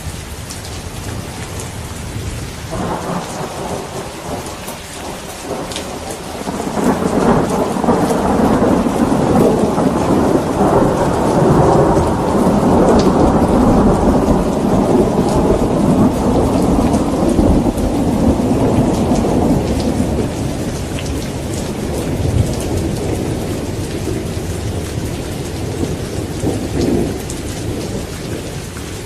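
Steady rain falling, with a long rolling thunder rumble that builds a few seconds in, swells to a deep, drawn-out peak, then slowly fades away near the end.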